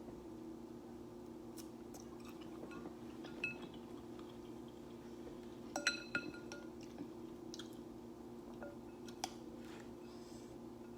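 Eating sounds from a seafood boil mukbang: chewing and a few sharp clinks of a utensil or shell against a bowl, with a short ringing cluster of clinks about six seconds in, over a steady low hum.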